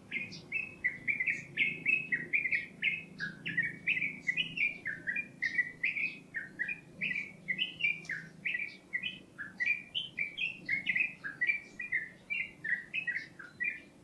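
A songbird singing a long, unbroken run of quick, short whistled notes, most of them slurring downward, about three or four a second. A faint low steady hum lies underneath.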